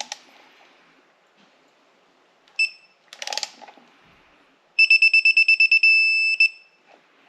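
Digital torque wrench beeping as a cylinder head bolt is tightened to its 22 ft-lb first stage: one short beep, a few ratchet clicks, then a fast run of beeps about five seconds in that merges into a steady beep, the signal that the set torque is reached.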